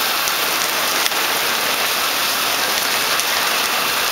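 Heavy rain pouring down, a steady dense hiss with a few sharper drop ticks.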